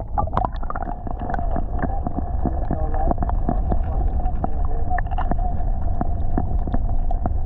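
Muffled rush of river current heard with the camera held underwater, a heavy low rumble with many sharp clicks and a steady faint whine, all dull and cut off in the treble.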